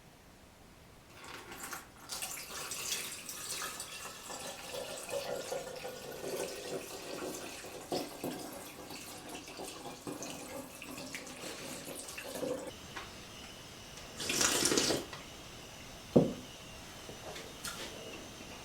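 Running water splashing unevenly, like a tap into a sink, for about twelve seconds. Then a short, louder rush about fourteen seconds in, and a single sharp knock soon after.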